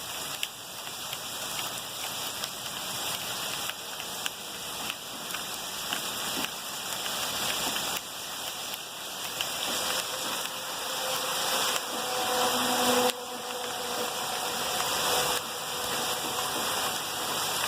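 Heavy rain and rushing floodwater, a steady hiss that jumps abruptly in level several times. A faint steady hum joins in during the second half.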